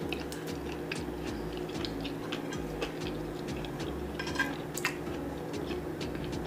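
Eating sounds close to the microphone: scattered small clicks of chewing and mouth noises, over a steady low hum.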